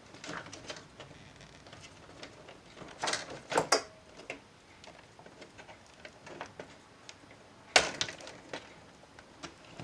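Clicks, taps and knocks of laptop parts being handled during disassembly. There is a cluster of louder knocks about three seconds in and one sharp click near eight seconds.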